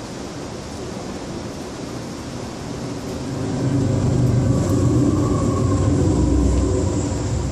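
Union Pacific coal train passing close alongside, heard from inside a passenger railcar: a steady rumble of hopper cars on the rails, then a diesel locomotive's engine swelling loud from about three and a half seconds in and easing off near the end.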